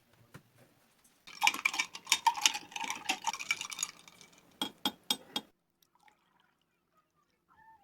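Water pouring or running with glass clinking for about three seconds, then a few separate clinks of glassware.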